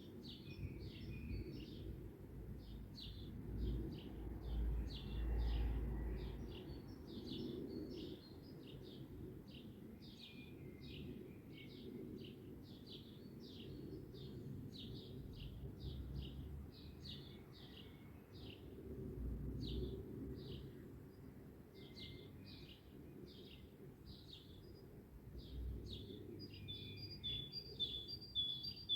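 A dawn chorus: several songbirds singing and chirping over one another, with many short high calls, and a quick run of repeated high notes near the end. Beneath them a low rumble swells a few times, loudest about five seconds in.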